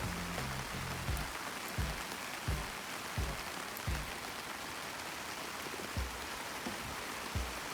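Steady rain falling, with irregular low thuds of heavier drops landing roughly every second.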